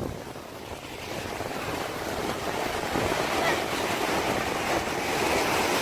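Ocean surf washing onto the beach: a steady hiss of breaking waves that swells gradually after a quieter first second.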